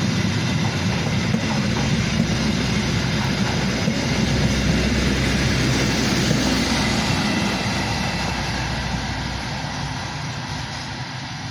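A train passing close by: a steady heavy rumble with rolling wheel noise, fading away over the last few seconds.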